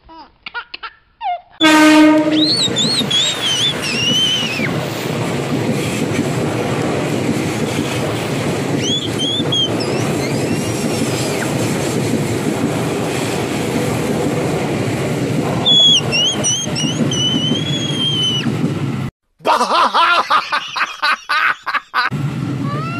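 Electric commuter train passing close by: a steady, dense rush of wheels on rail lasting most of the stretch, with a few high thin squeals. Short choppy sound effects come at the start and again near the end.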